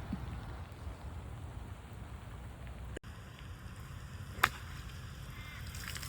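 Steady rain and wind noise, then a single sharp golf club strike on the ball about four and a half seconds in.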